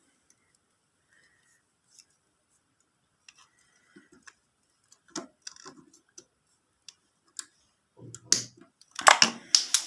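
Scattered light clicks and handling noises from hands working on motorcycle wiring and a plastic connector, with a louder clatter of sharp knocks near the end.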